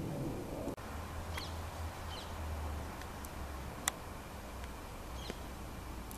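Outdoor background hiss with a few short bird chirps and a low steady rumble, with a brief break in the sound just under a second in and a single sharp click about four seconds in.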